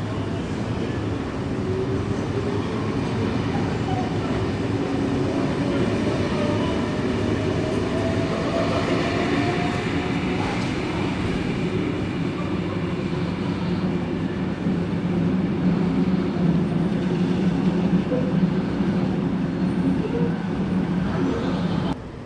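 A Sydney Trains S-set suburban electric train running at the platform: a steady rumble, over which a whine rises slowly in pitch for several seconds.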